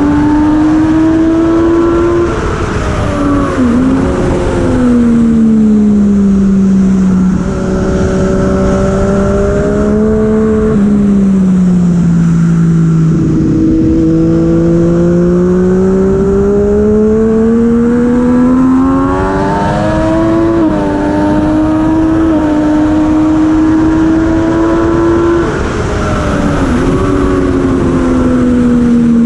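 Superbike engine at racing speed, its note rising and falling with the throttle through the corners. There are quick downshift blips about four seconds in and again near twenty-seven seconds.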